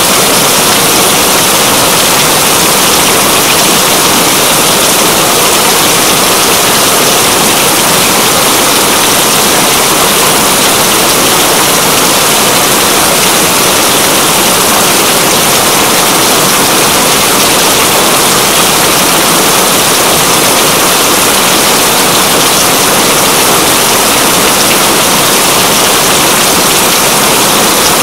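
Steady, unbroken rain: a dense, even hiss that does not change.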